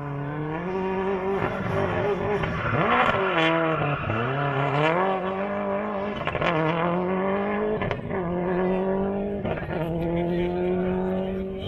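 Car engine driven hard, its note rising and falling over and over as the throttle is worked, with several quick dips in pitch.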